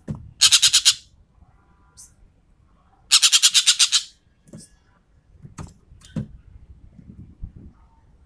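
Sumatran ekek keling bird giving two rapid rattling chatter calls, each a quick run of about ten harsh notes a second, the first short and the second about a second long, with a few faint clicks between.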